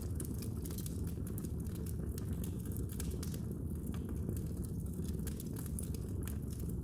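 Fire in a fireplace crackling: many small, sharp pops and snaps at irregular intervals over a steady low rumble.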